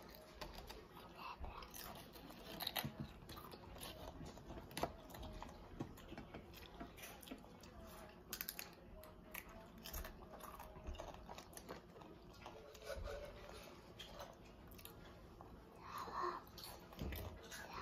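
Children chewing and crunching potato chips, with scattered sharp crunches between quieter chewing.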